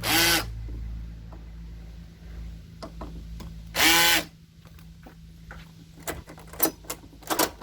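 Cordless screwdriver driving the screws of a door handle in short bursts, one at the start and another about four seconds in, followed by a series of sharp clicks and knocks from the handle mechanism near the end.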